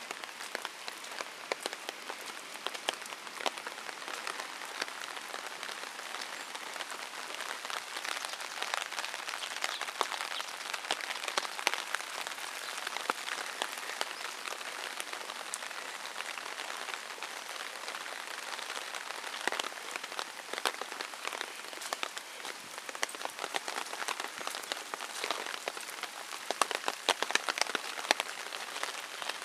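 Steady rain falling on wet paving, grass and trees, an even hiss scattered with many sharp ticks of drops striking close by.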